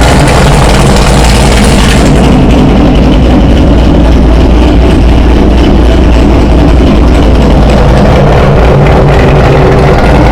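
Chevrolet C7 Corvette's V8 idling steadily while warming up after a cold start, loud and close; the high hiss in the exhaust note fades about two seconds in.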